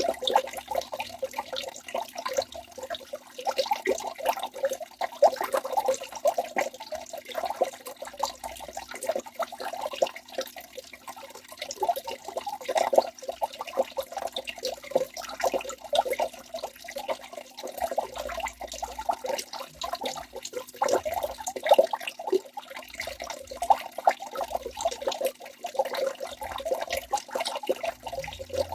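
Waterfall: falling water splashing steadily, a continuous dense patter of small splashes with no pauses.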